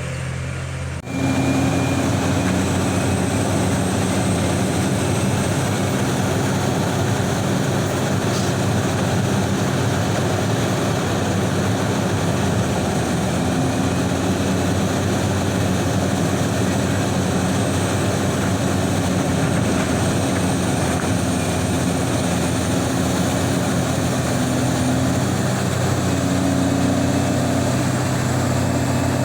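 Liebherr 984 hydraulic excavator's diesel engine running steadily at high revs, close by. It gets suddenly louder about a second in.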